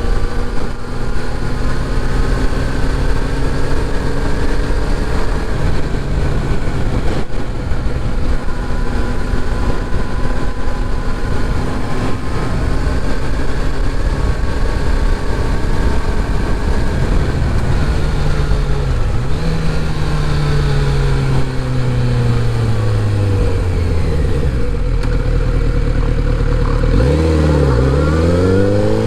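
Kawasaki Z900RS inline-four engine running under way, its pitch rising and falling with the throttle and gear changes, with a quick drop and climb in revs near the end.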